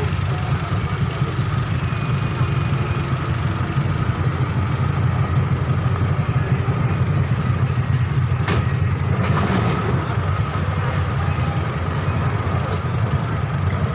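A heavy vehicle's engine running steadily at low revs, with a couple of short knocks about two-thirds of the way through.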